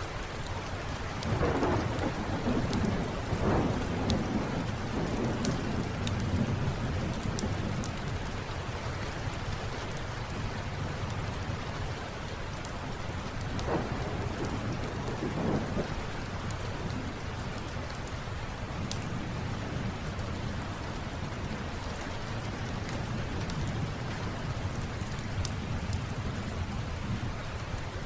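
Steady rain falling, with thunder rumbling twice: a longer roll from about a second and a half in, and a shorter one about halfway through. Faint scattered clicks sit over the rain throughout.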